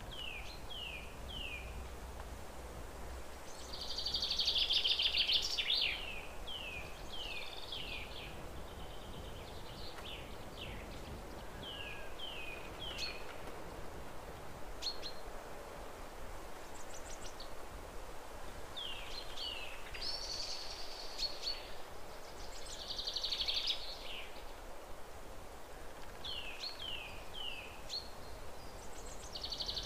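Birds chirping: short falling chirps in runs of two or three, with a louder twittering burst every few seconds, over a steady low hiss.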